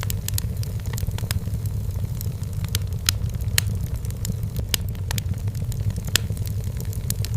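Firewood burning in a fireplace: sharp, irregular crackles and pops over a steady low rumble.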